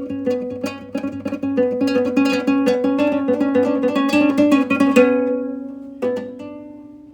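Plucked string instrument playing music: a run of quick plucked notes that grows busier, breaks off about five seconds in, then one final chord about a second later that rings out and fades.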